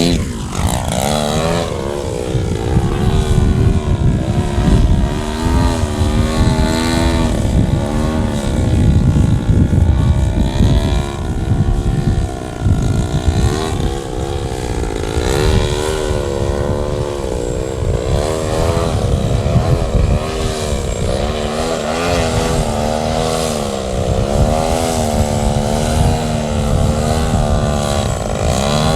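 A radio-controlled Ultimate aerobatic biplane's motor and propeller in flight. The pitch keeps rising and falling as it manoeuvres and passes, and drops sharply right at the start as it goes by close.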